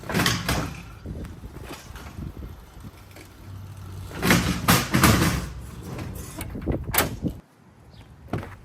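Clunks, knocks and rattles of electric mini bikes being handled and loaded into a vehicle, with the loudest bangs about four to five seconds in and a sharp knock near seven seconds.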